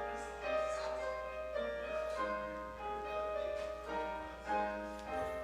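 Keyboard instrument playing slow music, a melody over held chords with the notes changing about every half second.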